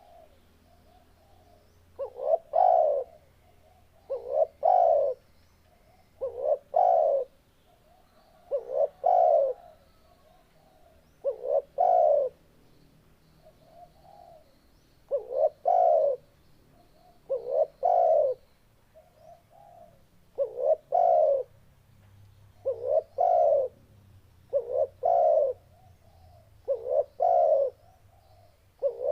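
Spotted dove cooing: one call after another, about every two seconds, each a short note followed by a louder drawn-out coo, with softer notes in the gaps.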